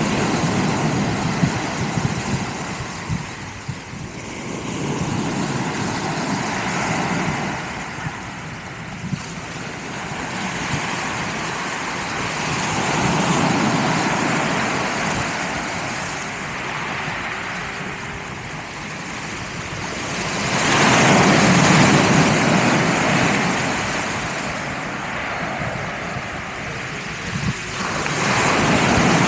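Sea waves breaking on the shore and washing back, the surf swelling and fading in long surges every several seconds, the loudest about two-thirds of the way in.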